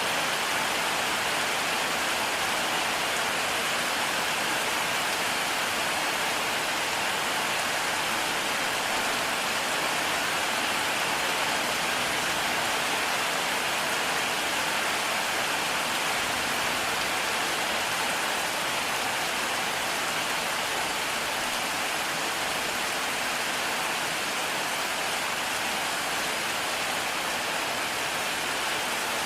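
Heavy rain falling steadily, a dense, even hiss of drops with no thunder claps.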